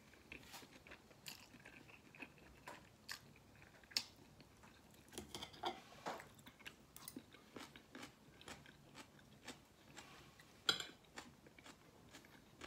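A person eating noodles: wet chewing and mouth sounds with many short clicks, including metal fork clinks against the plate. The two sharpest clicks come about 4 seconds in and just before 11 seconds.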